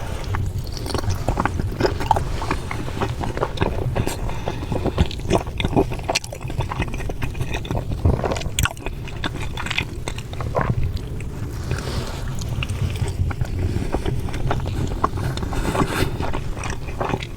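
Close-up eating sounds: a person biting and chewing food, with irregular wet clicks and crunches over a low rumble.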